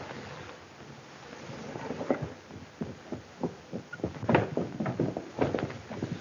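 An irregular clatter of short knocks and thuds, growing louder from about four seconds in.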